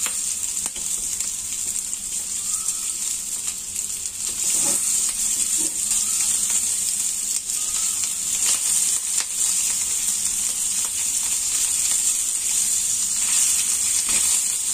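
Leftover roast pork pieces with garlic and ginger sizzling in oil in a frying pan as they are toasted: a steady high hiss. A spatula stirring the pieces gives occasional light scrapes and taps against the pan.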